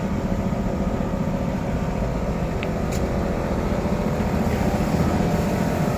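UD Trucks Nissan Quester CWE 280's six-cylinder diesel engine running steadily.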